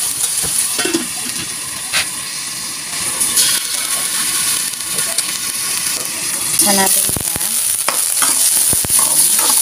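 Squash cubes frying in oil in an aluminium wok: a steady sizzle, with a few sharp metal clinks as a steel lid is set on and later lifted off. The sizzle is softer while the lid is on and louder once it comes off, about two-thirds of the way in.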